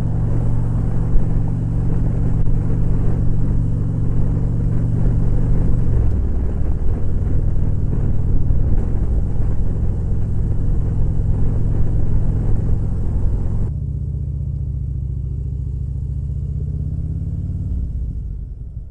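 Motorcycle engine running while under way, with a steady wind hiss over it; the engine note drops about six seconds in. About fourteen seconds in, the hiss cuts off abruptly, leaving a quieter steady engine hum that falls away near the end.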